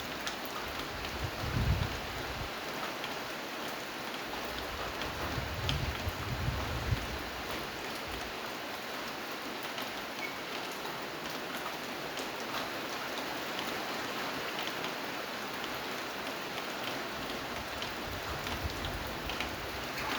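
Steady rain falling, with many small separate drop ticks over an even hiss. Two short low rumbles come about 2 seconds in and again around 6 to 7 seconds.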